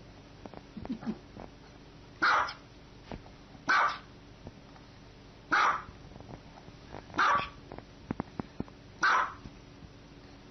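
Small white dog barking five times: single sharp barks about one and a half to two seconds apart.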